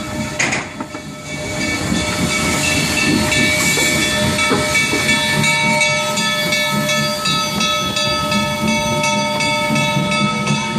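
Steam train running, heard from aboard: a steady rumble and hiss with several high, steady ringing tones held throughout. There is a single knock about half a second in, and the sound grows louder after about a second and a half.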